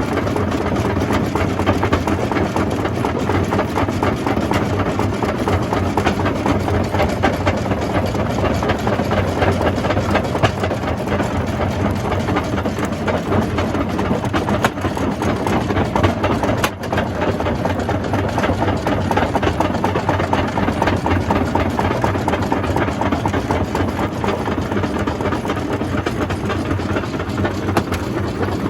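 Jaw crusher running and breaking rock: a steady low machine hum under a dense, continuous crackle and clatter of stone being crushed. It dips briefly once, about two-thirds of the way through.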